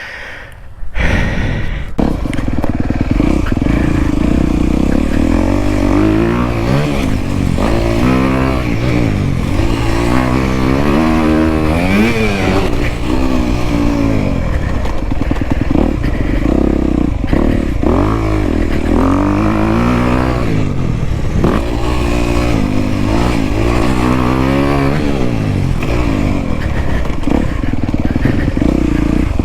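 Off-road motorcycle engine being ridden hard. It picks up about a second in, then revs up and falls back over and over as the throttle is opened and closed.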